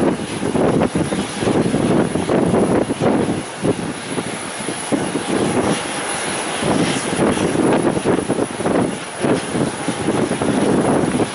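Airplane engine noise, mixed with wind gusting on the microphone, in irregular surges.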